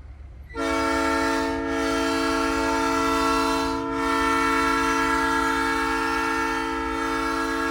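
Nathan Airchime P3 three-chime air horn on a big rig, sounding a long steady chord that starts about half a second in, with a brief dip about four seconds in, over a low rumble.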